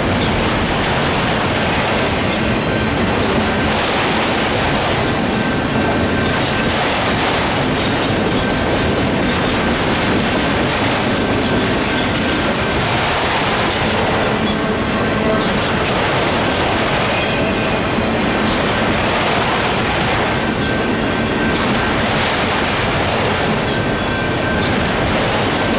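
Freight train cars rolling past over a grade crossing: steady rumble and clatter of wheels on the rails, with a thin steady squeal from the wheels.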